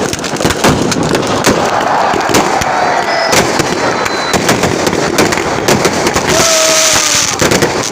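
Fireworks going off, a dense run of sharp cracks and pops in quick succession, with a steady hiss joining in about six seconds in.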